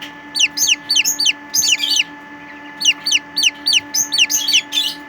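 An 11-day-old Serama bantam chick peeping loudly over and over, in quick runs of short, high, falling peeps with a brief pause near the middle. It is the distress call of a lone chick that has been separated and is calling for its companions.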